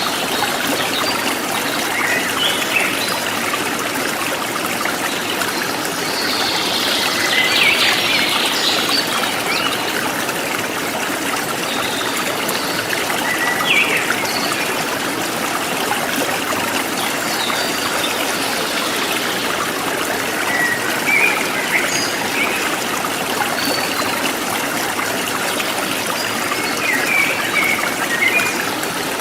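Forest stream trickling and babbling steadily, with birds chirping and calling now and then over it.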